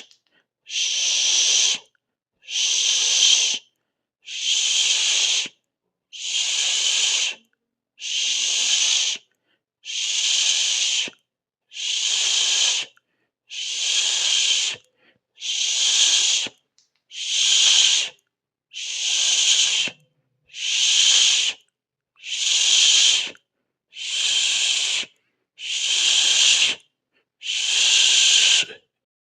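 A hiss like a drawn-out "sss" made with the mouth, repeated about every two seconds, each one lasting just over a second with a short silence between.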